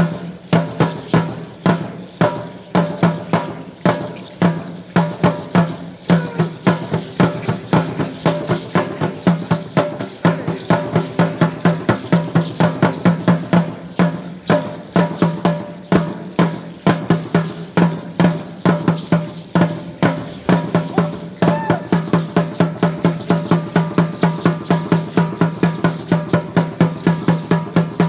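Danza azteca drumming: a drum beaten in a fast, driving rhythm of about four strokes a second, the beat steady throughout.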